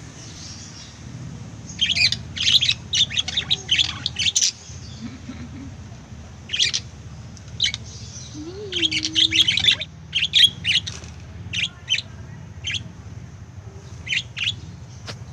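Pet lovebirds chirping: short, shrill chirps in quick runs, broken by pauses of a second or so.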